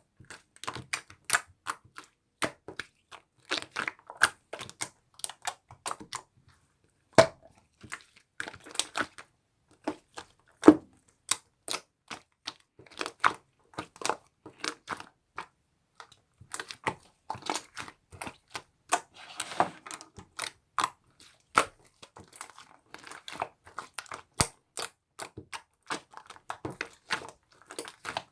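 Slime being squished and pressed by hand, giving a rapid, irregular run of sharp pops and clicks.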